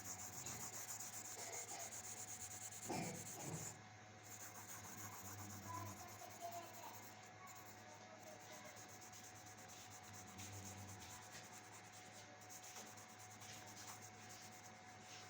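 A drawing tool rubbing steadily across paper in quick repeated strokes, with one brief louder sound about three seconds in.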